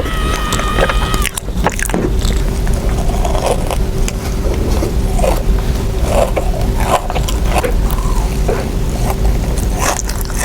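Close-miked chewing of soft mochi: small wet, sticky mouth clicks and smacks over a steady low hum and rumble. A short steady electronic tone sounds at the start.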